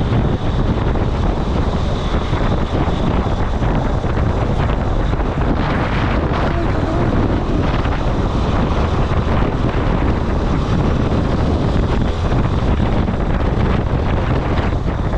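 Wind buffeting the microphone, a loud, steady low rumble with no pauses.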